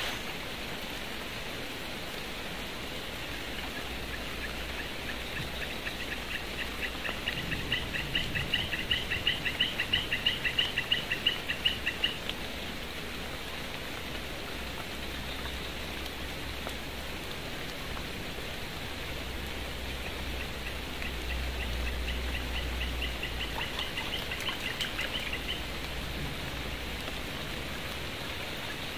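Steady rain hiss. Twice, a rapid trill of short repeated chirps from a bird or insect rises over it: first louder, about 5 to 12 seconds in, then fainter near the end.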